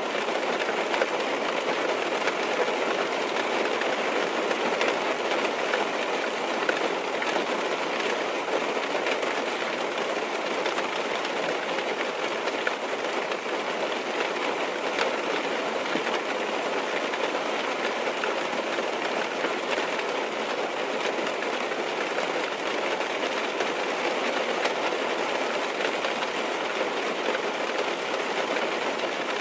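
Steady rain on a car's roof and windows, heard from inside the car: an even, unbroken patter of many small drops.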